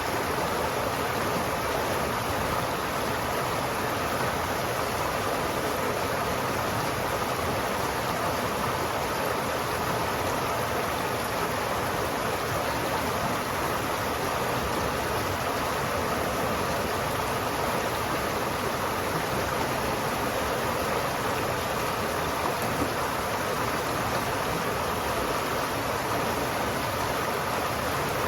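River water flowing steadily, an even, unbroken sound of running water with no change in level.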